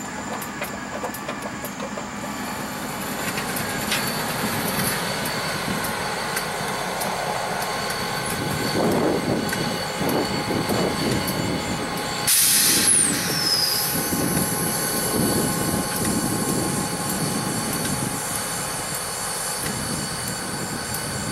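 Diesel-hauled freight train rolling slowly past, with the locomotives' engines running and steel wheels running on the rails. About twelve seconds in there is a sudden loud hiss with a falling whistle-like tone, lasting about a second.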